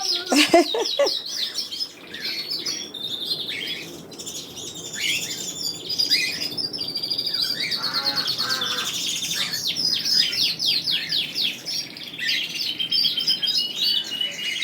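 A flock of aviary birds, canaries and cockatiels, chirping and singing all at once, with many overlapping high chirps and fast trills.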